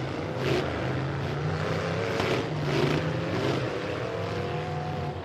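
Full-size pickup truck engines running and revving in a demolition derby, with one engine note climbing slowly over the last couple of seconds.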